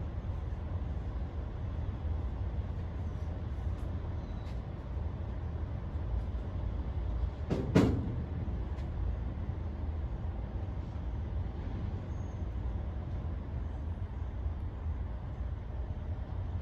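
Steady low rumble with one loud knock a little before halfway through, from work on a commercial condenser unit.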